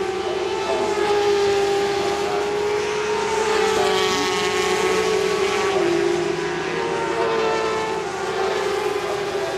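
Several 400 cc supersport racing motorcycles running at high revs together, their engine notes overlapping and shifting slightly in pitch as they are held on and eased.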